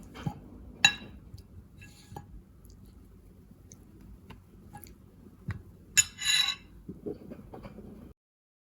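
Kitchen dishes and utensils being handled: a few light clinks and knocks, then a brief scrape about six seconds in.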